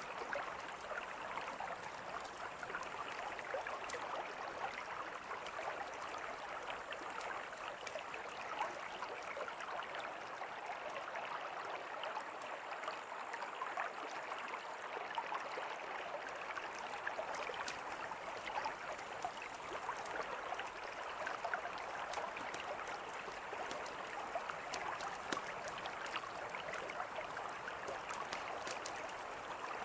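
Mountain river flowing in a steady rush, with scattered sharp crackles from a campfire.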